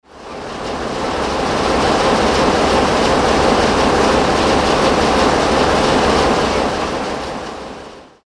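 Train running on the rails: a steady, loud mix of low rumble and rapid clatter that rises over the first second or so and fades out shortly before the end.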